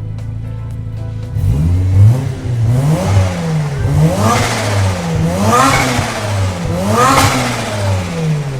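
Turbocharged Mazda 13B rotary engine idling steadily, then revved in a series of quick throttle blips about once a second, each rising and falling in pitch. The engine is unported, so it lacks the choppy brap of a ported rotary.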